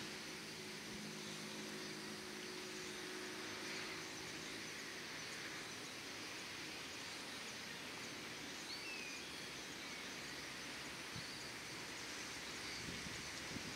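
Faint outdoor ambience: a steady airy hiss, with a low steady hum that stops about five seconds in, and a few faint bird chirps near the middle.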